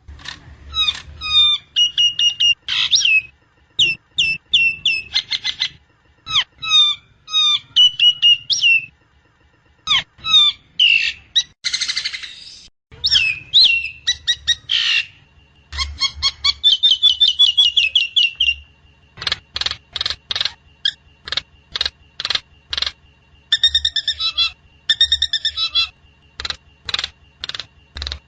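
Nias hill myna calling: loud phrases of sharp, sliding whistled notes with short pauses between them, a harsh rasping call about twelve seconds in, and a quick string of short clipped notes a little later. A faint low hum runs underneath.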